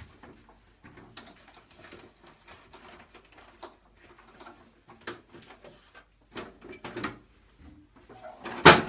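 Rustling, scraping and light knocks of hands working a vacuum cleaner and its dust bag over a bin, with a loud clatter near the end.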